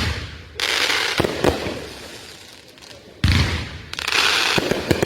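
Consumer aerial fireworks going off: a loud boom about three seconds in, with crackling hiss and sharp pops from the bursts after each shot, the first crackle following a boom just before.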